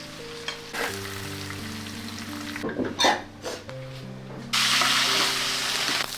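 Stir-frying in a wok: a metal spatula knocks and scrapes the pan about three seconds in. A loud sizzle starts suddenly about four and a half seconds in and carries on. Background music with held notes plays underneath.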